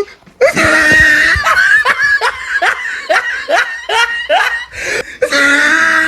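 A person laughing loudly in a fast run of short "ha" bursts, about three a second, ending in a drawn-out vowel near the end.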